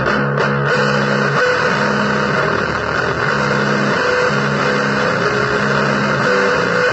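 Noise-blues guitar music: a thick wash of distorted noise over held low guitar notes that change every second or so.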